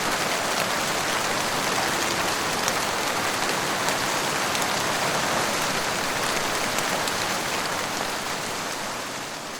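Heavy rain falling steadily on a surface, with fine drop ticks through it, fading out near the end.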